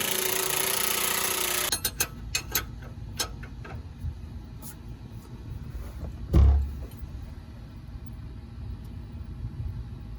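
A power tool running for under two seconds while the shock absorber's mounting nut is tightened, followed by sharp metallic clicks of tools on the fastener and one heavy low thump a few seconds later.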